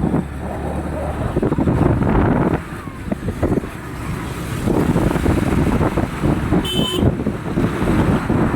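Road traffic noise from vehicles in a jam, with wind buffeting the microphone. A short, high-pitched horn beep sounds about two-thirds of the way through.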